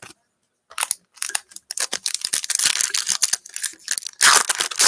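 Trading cards being flipped through and slid against one another: a quick, irregular run of sharp clicks and scrapes, loudest near the end.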